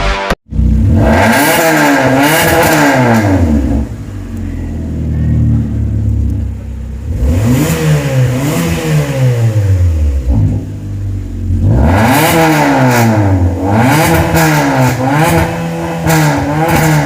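Car engine revved repeatedly through an aftermarket valvetronic exhaust, its pitch climbing and dropping with each blip of the throttle. The revs come in three bouts, with the engine settling to a lower, steadier note between them.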